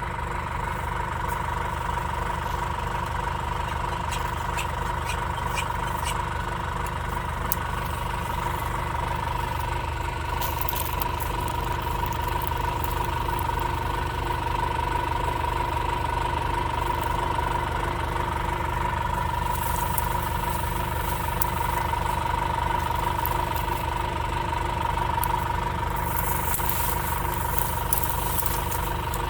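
Tractor engine running steadily, with a constant whine over its low drone.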